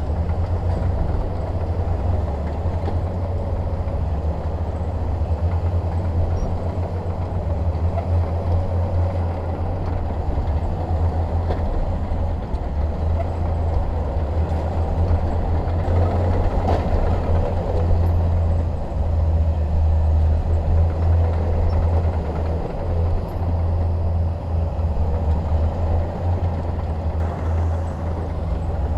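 Shantui DH17 bulldozer's diesel engine running steadily with a deep low rumble while the dozer works.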